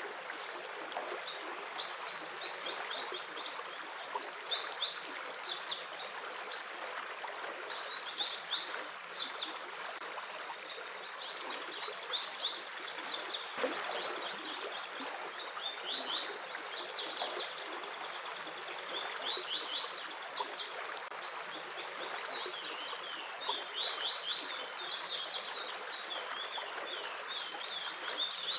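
Running stream water with a steady rush, overlaid by songbirds singing in quick repeated chirping trills throughout.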